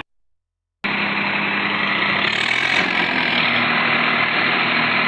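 Diesel tractor engine running steadily and loudly. The sound cuts in abruptly after a silent gap of under a second at the start.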